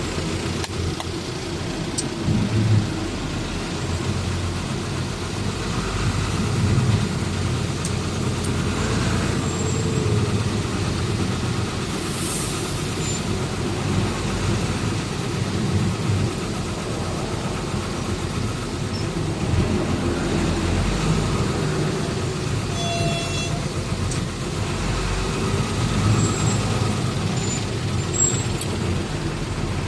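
Truck driving on the road: a steady low rumble of engine and road noise, with a few brief higher tones from traffic about two-thirds of the way through.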